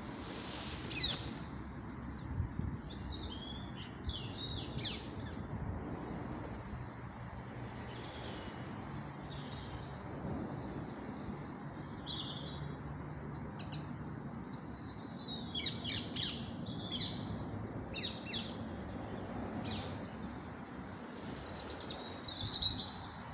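Small birds chirping and trilling in scattered clusters of short high calls, busiest about two-thirds of the way through and again near the end, over a steady low background hum.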